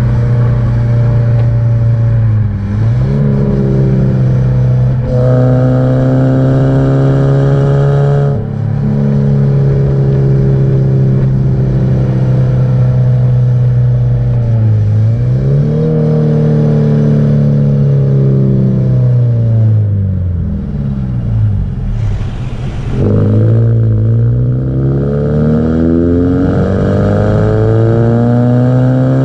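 Subaru Impreza 1.5R's flat-four engine and exhaust under way: the revs climb and drop back at several gear changes, fall away about twenty seconds in as the car eases off, then climb again.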